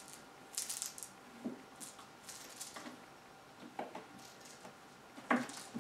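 Two cats play-fighting: scattered short rustles and scratches of paws and fur with a few soft thumps, the loudest about five seconds in.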